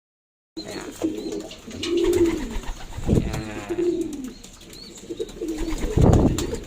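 Racing pigeons cooing in a loft: several drawn-out low coos, with scattered clicks and a couple of dull thumps.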